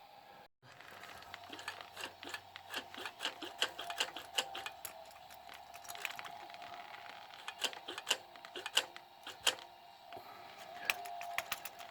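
Irregular light clicks and taps from hand work on the motorcycle's carburetors, with a faint steady hum underneath.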